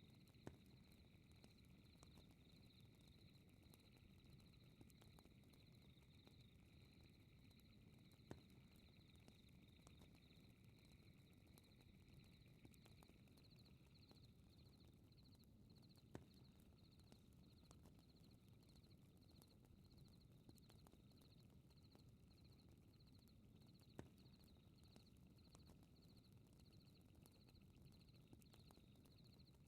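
Faint fireplace ambience: a low rumble of burning with scattered small crackles and a few sharp pops, under insects chirping in a steady high pulse.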